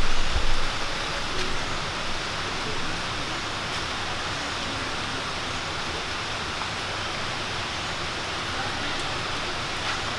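Steady, even rushing hiss of outdoor jungle ambience, with a few low thumps in the first second.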